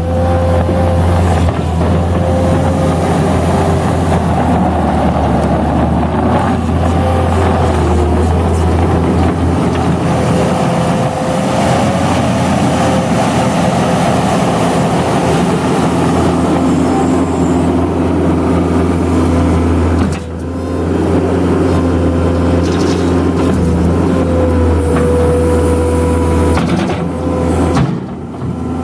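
New Holland L218 skid steer's diesel engine running steadily, with a wavering whine over the engine note. The level drops briefly twice, about 20 seconds in and near the end.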